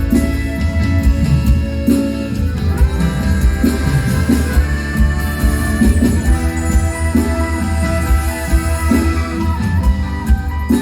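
Live mor lam band playing an instrumental passage: a melody of held notes over a steady beat and strong bass.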